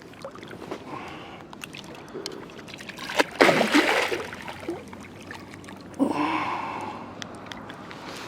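Hooked carp splashing at the surface as it is played in, two loud splashes, about three seconds in and about six seconds in.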